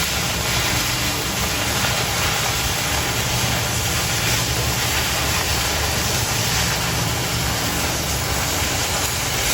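Oxy-fuel cutting torch hissing steadily as it cuts quarter-inch steel plate, a plunge cut started from a pre-drilled hole after preheating the steel to kindling temperature.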